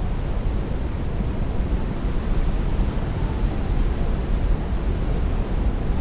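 Heavy rain beating against a window in strong wind: a steady, dense rushing noise with a deep rumble and no thunder or distinct events.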